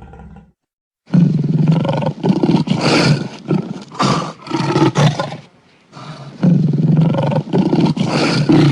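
A big cat roaring in a run of loud, rough calls, starting about a second in, with a short break a little past halfway before the calls resume.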